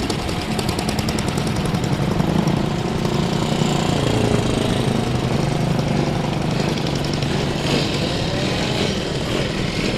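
Old vehicle engine running steadily at low speed with a rapid, even beat.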